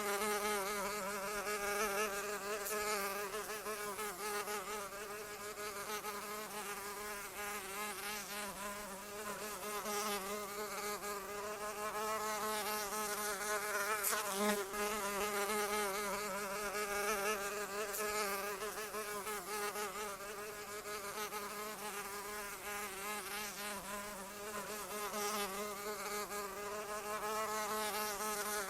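Continuous buzzing of a flying insect's wings, a steady drone whose pitch wavers slightly up and down.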